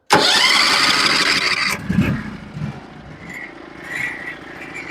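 Norwood HD36v2 sawmill's engine being started cold: the starter cranks it with a rising whine for a little under two seconds, then cuts off suddenly, leaving a lower, steadier sound with a few low knocks.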